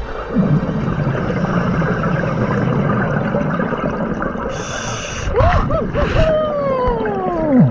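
Scuba diver underwater, a steady rumble of regulator breathing and bubbles, then excited screams muffled through the regulator mouthpiece: a few short whoops and a long falling wail near the end.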